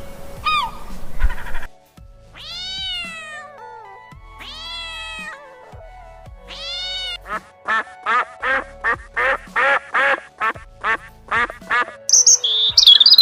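Animal calls over background music: three drawn-out calls about a second each, then a quick run of about fourteen short calls at roughly three a second, with high chirps near the end.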